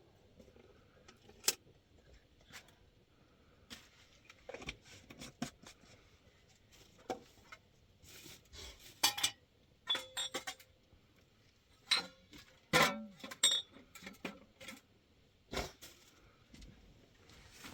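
Scattered clinks and knocks of hard objects being handled, at irregular intervals, a few ringing briefly.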